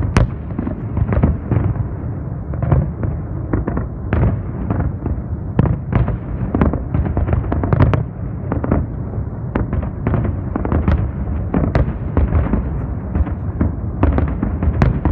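A fireworks display: a rapid, irregular barrage of shell bursts, several bangs a second, over a continuous rumble heard from a distance.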